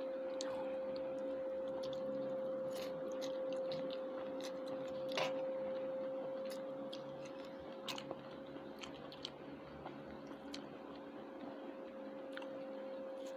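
Quiet eating sounds: chewing and scattered small clicks, over a steady hum.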